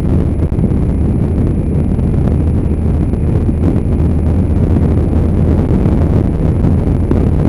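Motorbike riding along at a steady speed: a loud, even low rumble of engine and wind buffeting the microphone.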